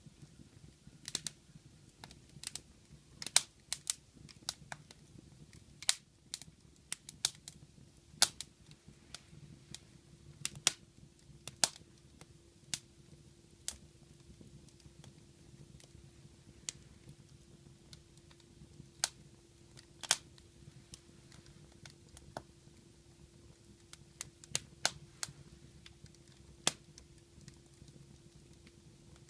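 Wood fire crackling in a fireplace: irregular sharp pops and snaps, a few a second at times, over a quiet low rumble.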